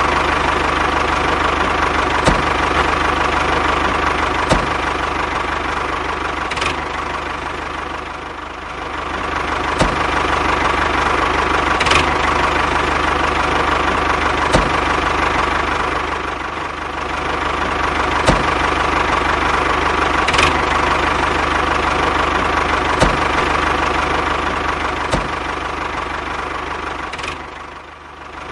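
A steady motor or engine running hum with a faint tick about every two seconds. It eases off briefly about eight and sixteen seconds in, and again near the end.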